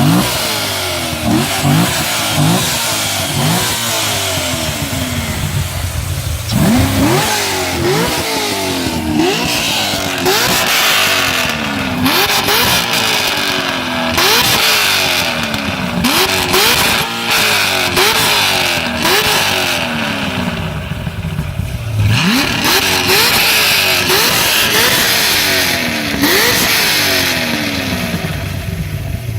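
Corvette engine and exhaust being revved again and again, each rev a quick rise in pitch and a slower fall back. There are short, quick blips through the first six seconds or so, then a long run of revs about every one and a half seconds.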